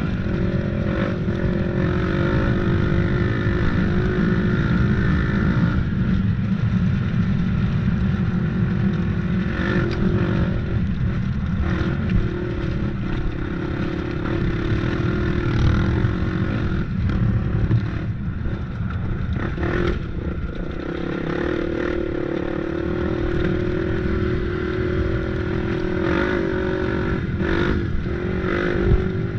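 Off-road vehicle engine running continuously under changing throttle on a trail ride, its pitch rising and falling, with scattered clattering knocks over rough ground.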